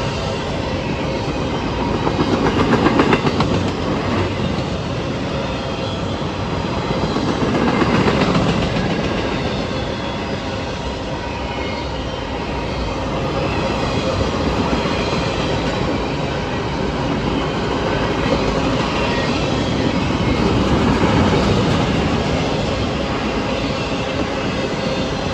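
A train rolling past, its steel wheels rumbling and clattering on the rails. The sound is continuous and swells louder several times, about three seconds in, around eight seconds and again near twenty-one seconds.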